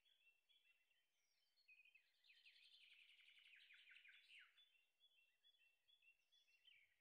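Near silence with faint birdsong: short, repeated high chirps, rising to a busier run of rapid twittering notes in the middle.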